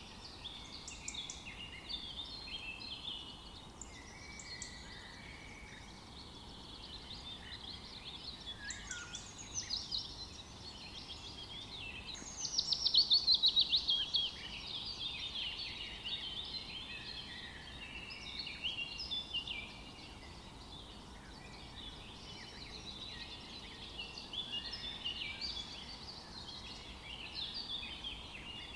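Forest ambience of several songbirds singing at once, a busy overlapping mix of chirps and short trills over a faint steady hiss. About twelve seconds in, one bird gives a loud, fast trill of rapidly repeated notes that falls in pitch over about two seconds.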